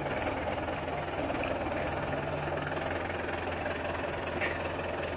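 Hand tractor's engine running steadily with an even, low hum.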